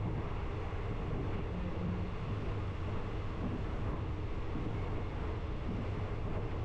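Passenger train running: a steady low rumble with an even noise over it, without a break.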